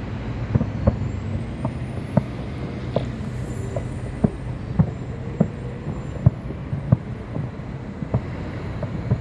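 Fireworks going off: a string of sharp bangs at irregular intervals, about one or two a second, over a steady low rumble.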